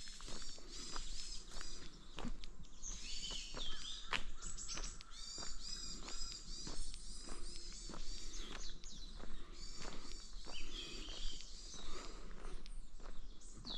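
Footsteps walking steadily along a forest path, about two steps a second, while songbirds sing quick repeated high phrases, busiest a few seconds in and again in the second half.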